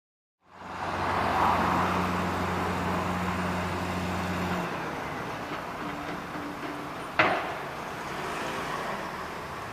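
Outdoor road-traffic noise with a steady engine hum that stops about four and a half seconds in, and one sharp bang or knock a little after seven seconds.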